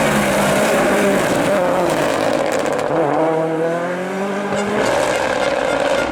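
Race car engine under hard acceleration on a hillclimb. Its pitch sags at first, then rises steadily through a gear and drops back at an upshift about five seconds in.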